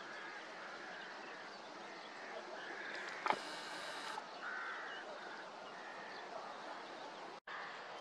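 Outdoor background noise with faint, scattered bird chirps. A single sharp click sounds a little after three seconds in, and the sound cuts out for a split second near the end.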